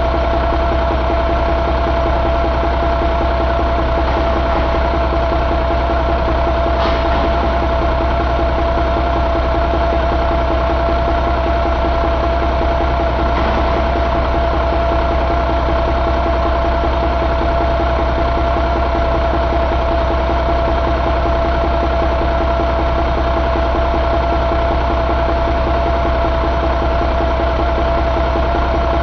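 2000 Cummins ISM inline-six diesel engine running steadily at idle, with a constant high whine over the engine note.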